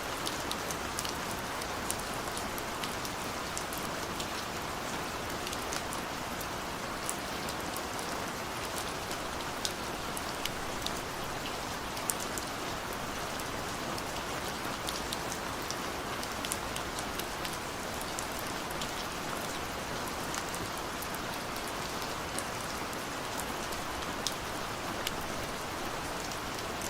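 Steady rain falling, with many scattered individual drops ticking sharply against a surface, which is billed as a window pane.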